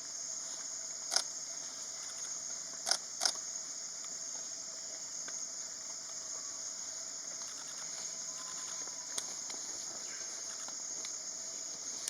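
Steady high-pitched insect drone of tropical forest, broken by three short sharp clicks about a second in and around three seconds in.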